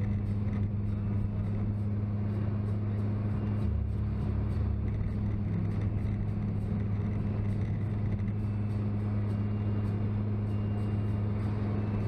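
Steady drone of a car driving: even engine and road noise under a constant low hum, with no change in level.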